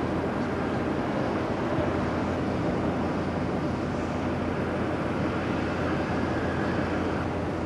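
Steady aircraft noise: an even low rumble with hiss and no separate events.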